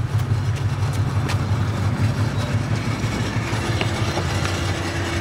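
Vehicle engine running at low revs: a steady low rumble with an uneven, throbbing pulse.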